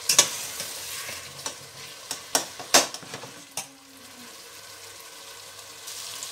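Boiled mutton frying in oil with onion and tomato in a stainless steel pot, sizzling steadily, while a spoon stirs it, knocking and scraping against the pot several times in the first few seconds; after that only the sizzle goes on. This is the bhuna stage, the meat being browned in its masala.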